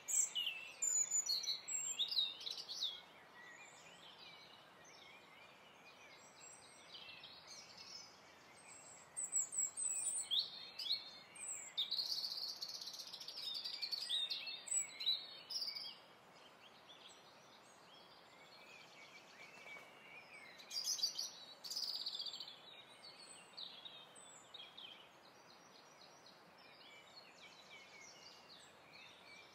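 Songbirds chirping and trilling in bouts of a few seconds, with quieter stretches of faint steady hiss between them.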